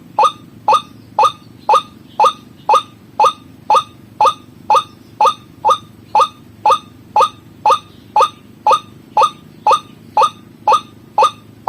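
White-breasted waterhen (ruak-ruak) call, a short falling note repeated evenly about twice a second, as played for a bird-lure (pikat) recording.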